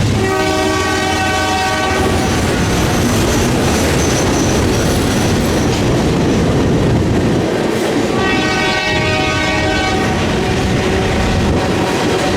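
Freight locomotive air horn sounding two long chord blasts, one at the start and one about eight seconds in, over the steady rumble and rail clatter of a passing freight train.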